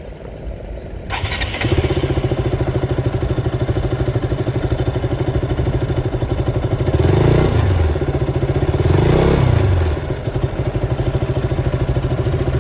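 KTM Duke 200's single-cylinder engine started on the electric starter, catching after a brief crank and settling into a steady, bassy idle. Twice in the middle it is blipped, the revs rising and falling back to idle.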